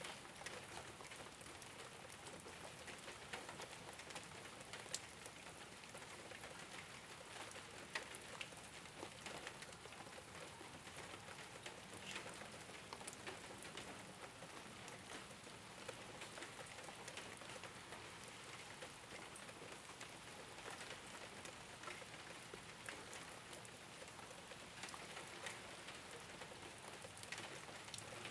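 Steady rain falling on a rooftop: an even hiss with many separate drops tapping throughout.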